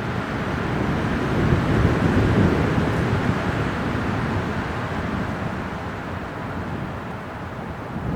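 Winter wind blowing in a steady rush that swells about a second in and slowly eases off.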